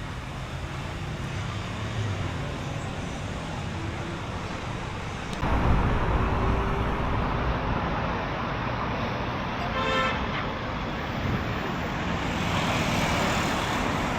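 City street traffic noise from passing cars. It gets louder about five seconds in, and a brief pitched tone sounds about ten seconds in.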